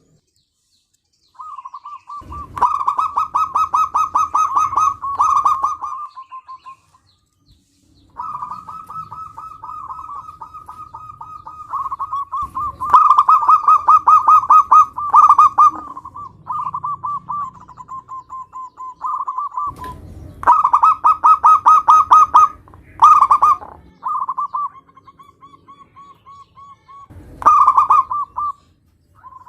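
Zebra dove (perkutut) cooing in a run of repeated phrases. Each phrase is a quick string of pulsed coos at a steady pitch, and some phrases are much louder than others.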